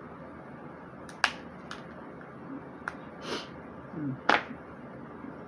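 Snow crab leg shells being cracked and snapped apart by hand: a handful of separate sharp cracks, the loudest near the end.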